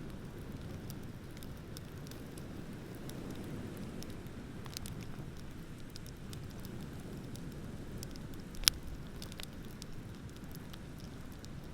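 Bonfire crackling, with scattered small pops and one sharp, louder pop a little after two-thirds of the way through, over a steady low rush of ocean waves.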